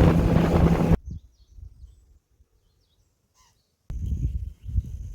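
Motorboat engine hum and wind noise, cut off sharply about a second in; then near silence with a few faint bird chirps, and about four seconds in, outdoor noise with low thumps and a faint bird call.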